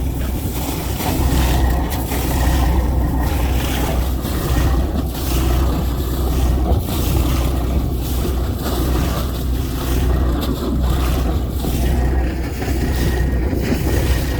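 Wind buffeting the microphone on a boat, over a steady low rumble, with gusts rising and falling.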